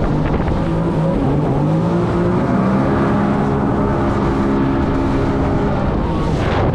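Jet ski engine running at speed over a steady rushing noise, its pitch rising about a second in and then holding steady.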